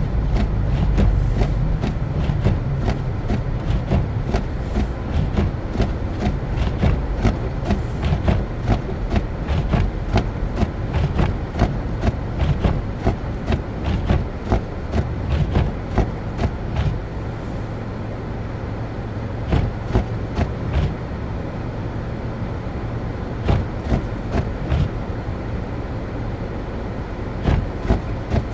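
Car driving on a snow-covered road: a steady low rumble of tyres and engine with frequent irregular sharp knocks and clicks. The rumble eases about two-thirds of the way through, then builds again near the end.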